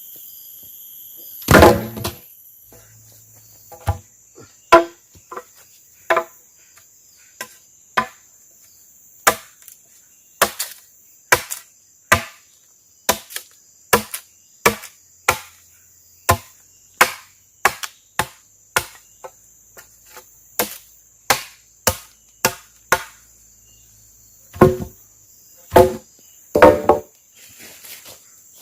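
Repeated chopping strikes of a blade into wood, roughly one a second with some quicker runs, over a steady high buzz of forest insects.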